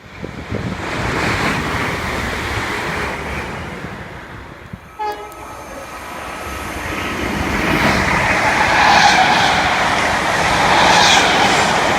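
A train passing through the station, its rushing rail noise swelling to its loudest over the second half. There is a brief tone about five seconds in.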